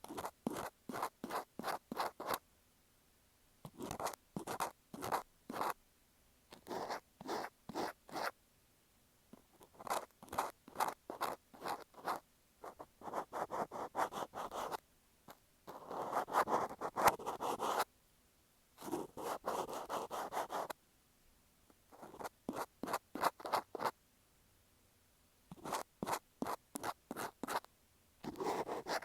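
Cotton swab scratching and rubbing on an earphone microphone in quick strokes, several a second. The strokes come in groups of about two seconds with short pauses between them, and there is a longer stretch of continuous rubbing near the middle.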